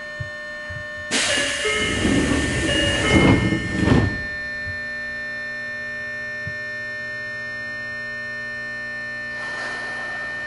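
Steady electrical hum of many fixed tones from a standing Tokyo Metro 03 series chopper-control commuter car's onboard equipment, heard inside the car. About a second in, a loud burst of hiss-like noise lasts about three seconds, and a softer rush of noise builds near the end.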